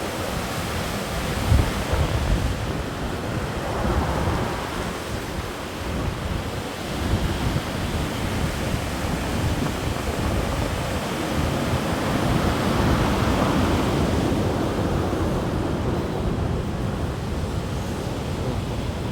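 Strong wind buffeting the microphone in irregular gusts, over a steady outdoor rushing noise.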